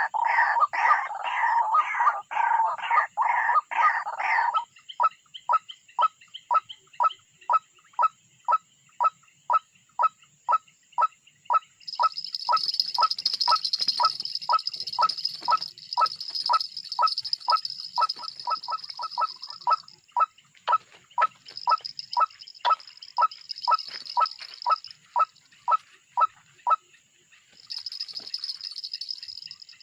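Bird calls: a loud, rapidly repeated call for the first few seconds, then a long run of short, evenly spaced piping notes, about three a second, that stop near the end. About twelve seconds in a steady high-pitched buzz joins in and runs on, with brief breaks.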